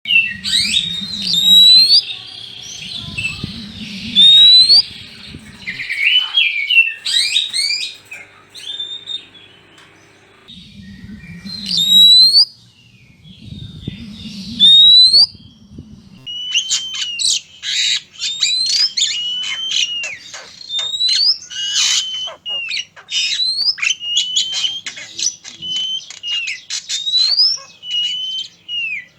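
Male and female Oriental magpie-robins calling: quick whistled notes sweeping up and down, busiest in the second half. Four loud low bursts come in the first half.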